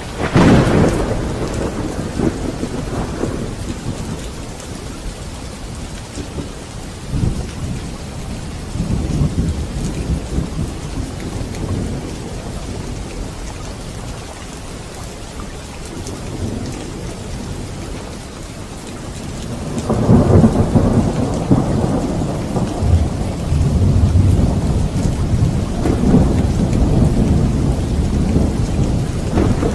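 Thunderstorm: steady rain pouring down with thunder. A sudden clap comes right at the start, softer rumbles follow around a third of the way in, and a long rolling rumble starts about two-thirds of the way through and carries on to the end.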